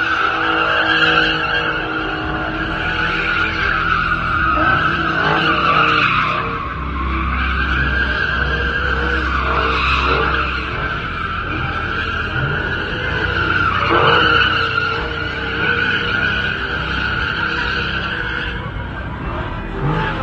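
Car tyres squealing without a break while a car does burnouts or donuts, with its engine running underneath. The squeal wavers in pitch and briefly dips partway through.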